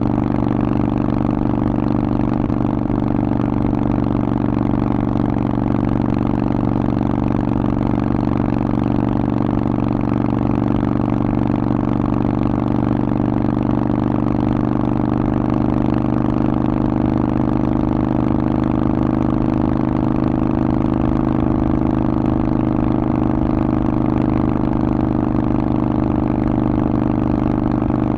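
Harley-Davidson Forty-Eight's 1200 cc air-cooled V-twin running through a Vance & Hines aftermarket exhaust, holding steady revs with little change in pitch.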